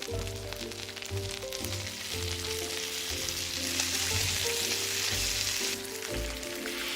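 Food sizzling in a hot pan, over background music with a melody and bass line. The sizzle grows louder about three and a half seconds in and eases back just before six seconds.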